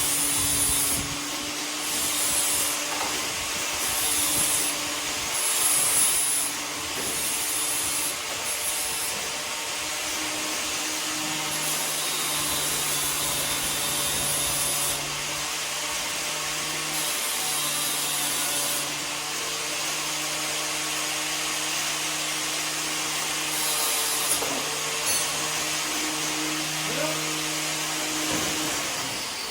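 An electric motor-driven tool runs steadily with a humming tone, with on-and-off bursts of high hiss as it works.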